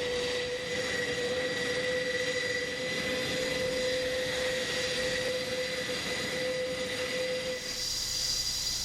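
Airbus A400M's Europrop TP400 turboprop engines running on the ground, a steady whine with a constant high tone over engine noise. The tone drops out and the sound changes near the end.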